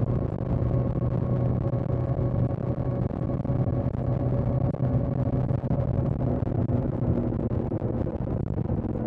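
Kawasaki Z900 inline-four motorcycle engine running steadily under way, its pitch holding even at a constant speed.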